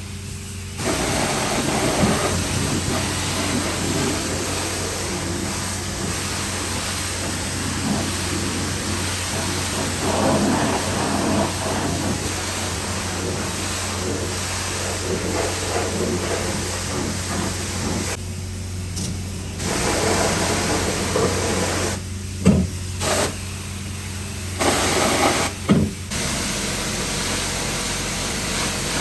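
Ford 7.3 Powerstroke V8 turbo-diesel engine running steadily, in several edited segments that cut in and out abruptly.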